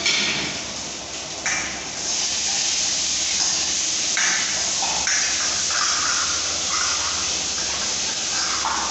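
Water running steadily from a kitchen tap, with the pitch of the splash shifting as the stream falls on what is beneath it.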